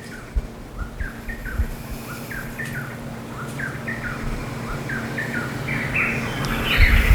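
Birds calling: a string of short, slurred notes repeating about two to three times a second, growing louder and busier into a noisy chorus near the end.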